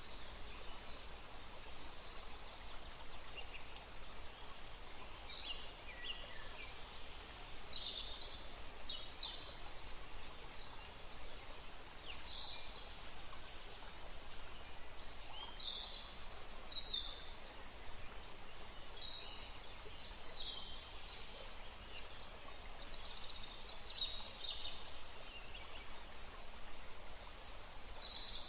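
Woodland ambience: birds calling in short, high chirps and phrases, several at a time and scattered all through, over a faint steady background hiss.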